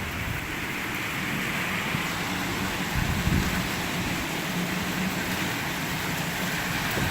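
Heavy rain from a hurricane's outer band pouring steadily, with a brief low surge about three seconds in.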